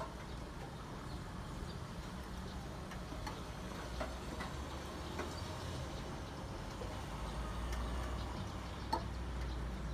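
Steady rain with scattered drops ticking close by, over a low rumble. A single sharper tap about nine seconds in.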